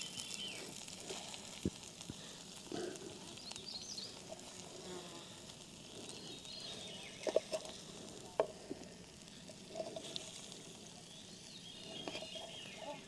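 Quiet camp-cooking background: a faint steady hiss with a few short, light clicks of utensils on cookware.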